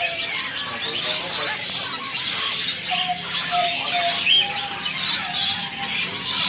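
Young common hill myna calling repeatedly in a series of high, squealing calls.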